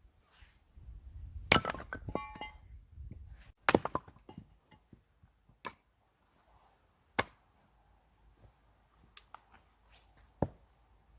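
Firewood being split with an axe: five sharp chopping strikes at uneven intervals. The first two are the loudest, and the first is followed by a brief ringing clink.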